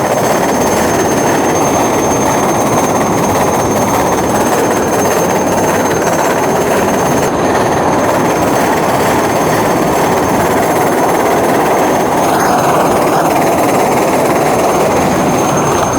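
Wind buffeting a GoPro's microphone while riding a bicycle: loud, steady rumbling noise with a faint thin high whine throughout.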